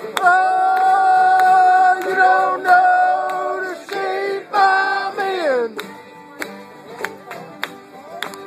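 Acoustic string band playing live: a loud held note for about four seconds, then a second note that slides downward about halfway through, after which the music drops quieter with sharp clicks.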